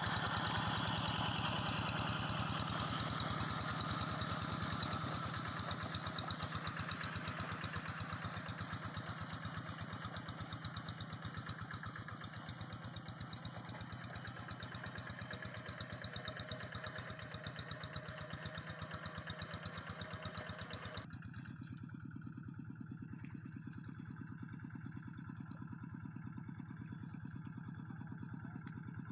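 Quick G3000 SEVA rice-field tractor engine running steadily with an even firing beat. A hiss over it fades and cuts off suddenly about three quarters of the way through, leaving the engine alone.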